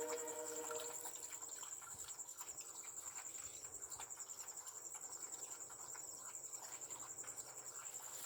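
Crickets chirping in a steady high-pitched trill. A fainter steady hum stops just under a second in.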